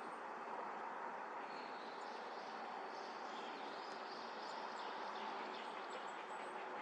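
Steady outdoor background noise, with faint high-pitched bird chirps from about a second and a half in.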